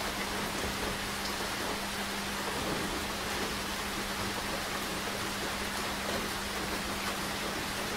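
Steady rain falling, an even hiss with no change in strength, over a faint steady hum.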